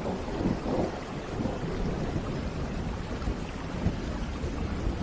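Steady rain with a low rumble of thunder rolling underneath, swelling slightly near the start.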